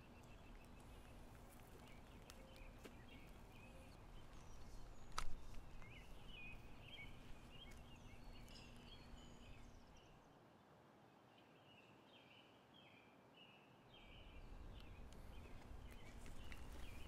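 Small birds chirping over a low outdoor background, with one sharp click about five seconds in. The low background drops away for a few seconds past the middle.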